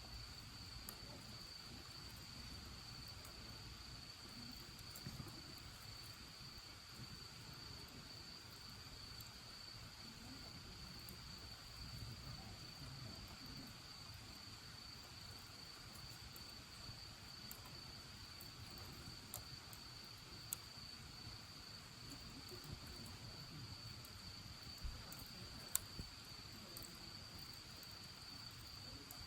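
Crickets trilling steadily on one high pitch, faint, with a few sharp crackles from the bonfire, the loudest about two-thirds of the way through and near the end.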